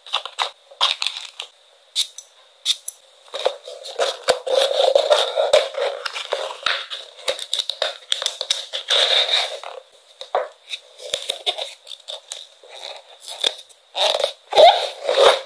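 Packaging crinkling and rustling as stationery items are handled and packed, with many small clicks and taps, busiest through the middle and again near the end. A faint steady high whine runs underneath.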